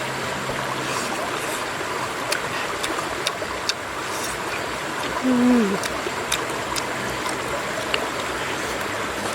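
Steady rushing of flowing stream water, with scattered sharp clicks. About five seconds in comes one short voice-like sound that falls in pitch.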